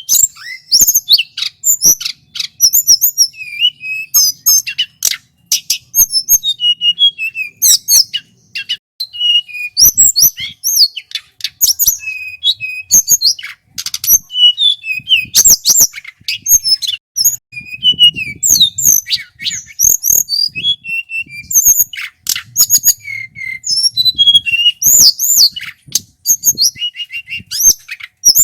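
Male tledekan gunung singing a long, loud, varied song: quick runs of high whistles and chirps, phrase after phrase with short gaps between.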